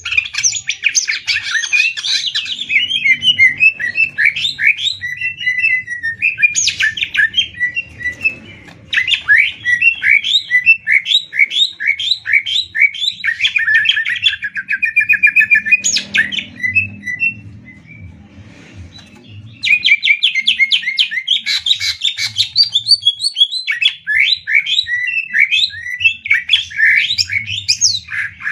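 Cucak ijo (greater green leafbird) singing in fast, rapid-fire repeated-note trills, sweeping up and down in pitch, with a short pause a little past the middle.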